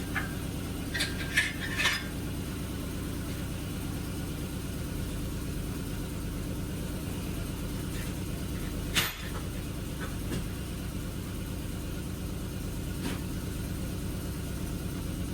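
A steady low mechanical hum, like a motor or engine running, with a few sharp clicks in the first two seconds and a single knock about nine seconds in.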